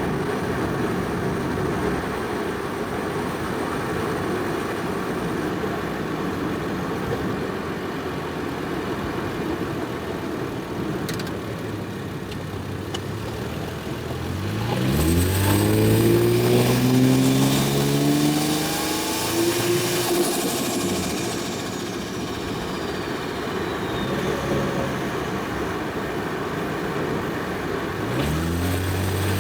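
Toyota Soarer's single-turbo 1JZ inline-six cruising with a steady rumble, then pulling hard about halfway through, its note climbing through the revs. As it eases off, a high whistle falls slowly in pitch over a few seconds, and the engine pulls again near the end.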